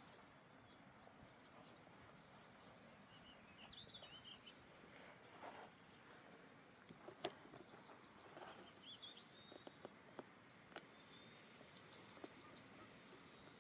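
Faint park ambience with small birds chirping here and there and a few scattered sharp ticks, the loudest about seven seconds in.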